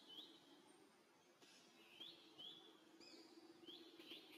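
Faint bird chirps, short high notes that rise and drop, coming in quick pairs three times, over a faint steady low hum.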